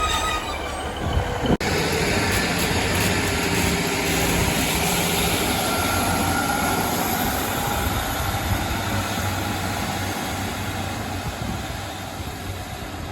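A train running on the line: a steady rumble and rushing noise, broken once by a sudden cut about a second and a half in.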